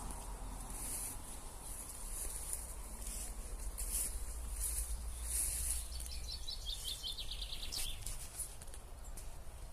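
Garden ambience: insects chirring in high pulses throughout, and a small songbird giving one fast, falling trill of rapid notes about six seconds in, over a steady low rumble.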